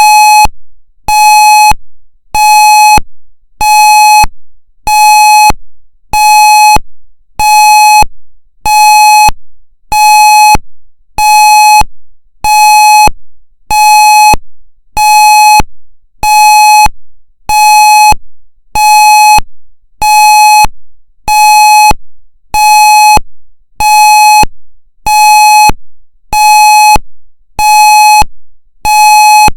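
Federal Signal MCP warning device sounding its pulsed steady signal: a loud, buzzy single-pitched tone that repeats at about one pulse a second. Each pulse starts sharply and fades before the next.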